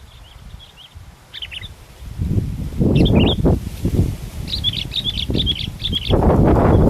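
Sooty-headed bulbuls calling in short chirping phrases, with a quick run of chirps past the middle. Heavy wind buffets the microphone from about two seconds in, a low rumble louder than the birds, strongest near the end.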